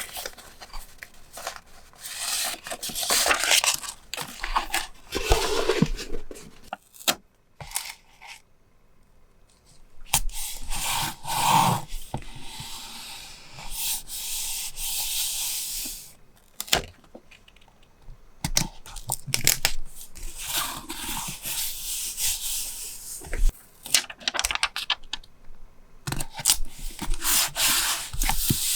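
Paper being handled for a journal page: stretches of rubbing and tearing paper, with small taps and clicks between them and a few short pauses.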